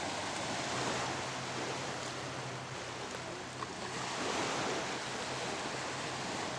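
Steady rushing outdoor noise, like wind on the microphone, with a faint steady hum from a distant radio-controlled model seaplane's engine.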